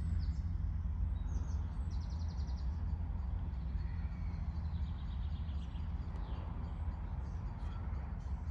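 Small birds twittering in quick trills of repeated short notes, a few times, over a steady low rumble.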